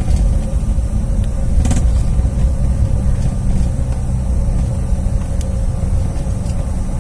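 Cabin noise of a Bombardier CRJ1000 jet on the ground just after landing: a steady low rumble of the rolling aircraft and its rear-mounted turbofans, with a constant engine tone and airy hiss. A few light cabin rattles about two seconds in.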